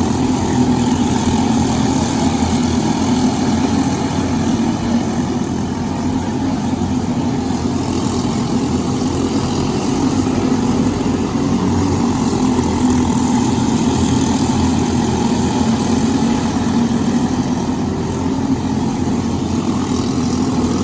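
Briggs & Stratton LO206 four-stroke single-cylinder kart engines running with a steady drone.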